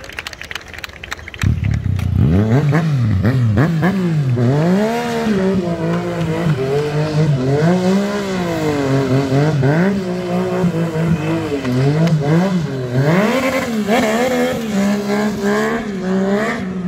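A motorcycle engine comes in loud suddenly about a second and a half in and is revved hard, its pitch rising and falling again and again.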